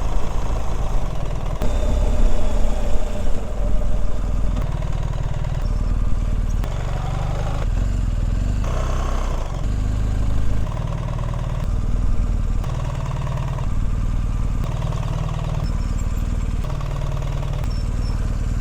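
BMW R 1300 GS and R 1250 GS flat-twin boxer engines at idle and low-speed rolling, heard from the helmet with the visor up. Short clips of the two bikes alternate every second or two, each with a different tone; the 1300 has a more tractor-like sound.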